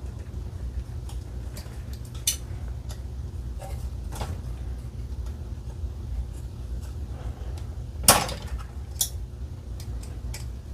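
Small metal tools and compressor parts clinking and knocking while the compressor's top is being unscrewed with a 3 mm wrench. There are a few separate sharp clicks, the loudest about eight seconds in, over a steady low rumble.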